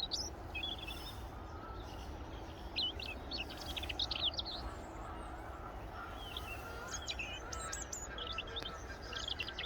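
Small songbirds calling in short, quick, high chirps, thickest about three to four seconds in and again near the end, over a steady outdoor hiss and low rumble.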